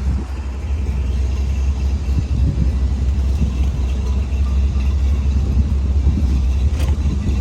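Car traffic passing along a busy street, with a deep, steady rumble underneath.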